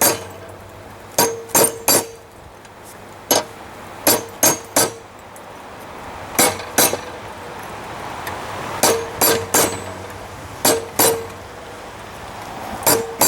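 Hammer blows on a hot railroad spike on the anvil, pulling the steel down to shape. They come in short groups of two to four strikes with pauses between, each with a brief metallic ring.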